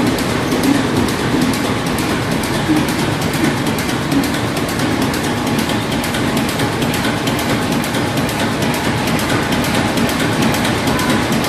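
Stationary engines running steadily, a loud continuous mechanical clatter that does not change.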